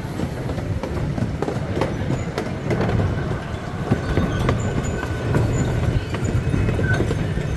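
Small amusement-park train rolling along its track, heard from on board: a steady low rumble with wheels clicking over the rail joints. A faint high wheel squeal comes in about two and a half seconds in and fades near the end.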